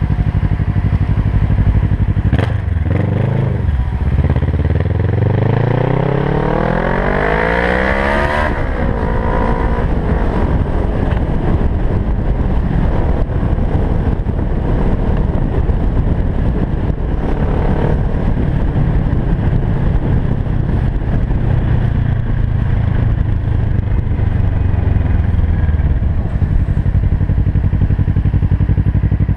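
Kawasaki Versys 650's parallel-twin engine under way: its note climbs steadily under acceleration for several seconds, drops off sharply about eight seconds in, then runs on steadily under a broad rushing noise.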